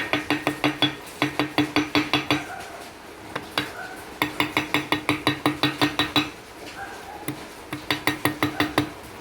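Hand ratchet wrench clicking quickly as it is worked on an engine bolt, in three runs of about two seconds each with short pauses between.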